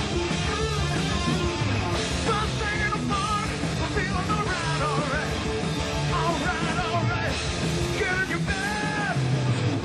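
Live hard rock band playing: electric guitar over bass and drums, with bending, wavering lead lines on top.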